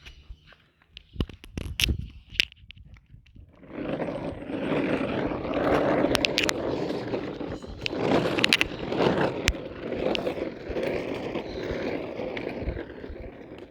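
Toy ride-on tractor's wheels rolling over rough ground, a continuous scraping rumble full of small clicks that starts about four seconds in, after a few scattered knocks.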